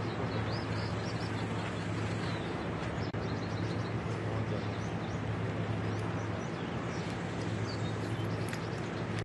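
A steady low mechanical hum with birds chirping over it.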